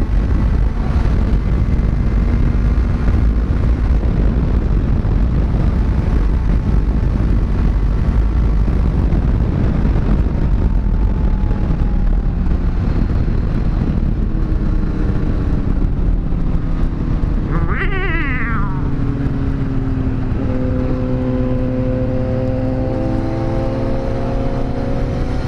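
Kawasaki Z900 inline-four engine running loudly and steadily. About two-thirds of the way through there is a short wavering high-pitched tone, after which the engine settles into a steadier, clearer note.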